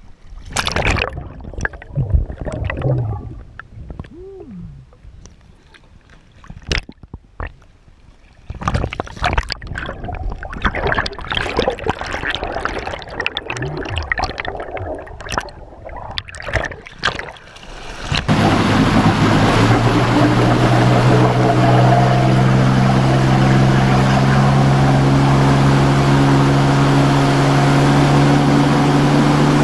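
Water splashing and gurgling in irregular bursts. About two-thirds of the way in, this gives way abruptly to a boat motor running steadily and loudly.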